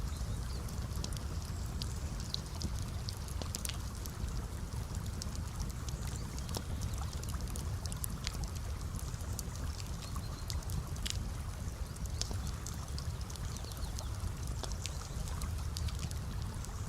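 Campfire crackling, with many small sharp pops scattered over a steady low rumble, alongside gently running water.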